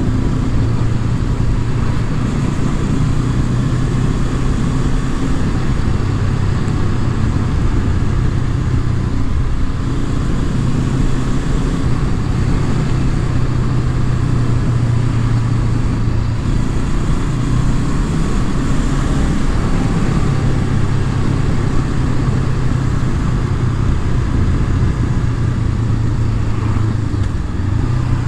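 Honda CB500F's parallel-twin engine running steadily under way, its note shifting slightly up and down with the throttle.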